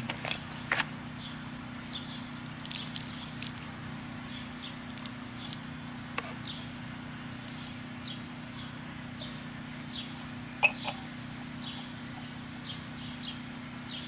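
Small birds chirping, short falling chirps repeating every half second to second, over a steady low hum, with a single sharp click about ten and a half seconds in.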